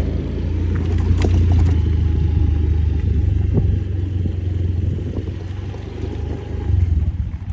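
An engine running steadily with a loud low rumble, swelling briefly near the end.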